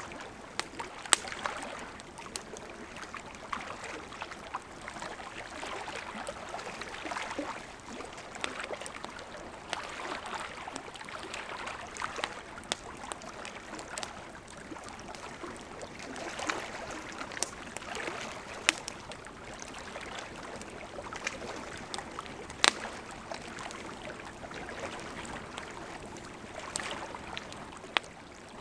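Burning campfire wood crackling: a steady hiss of flames with irregular sharp pops and snaps, a few of them much louder than the rest.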